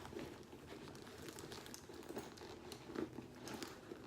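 Faint rustling and light clicks from handling a leather wallet and handbag as the wallet is worked into the bag's zippered compartment, with a few slightly louder clicks in the second half.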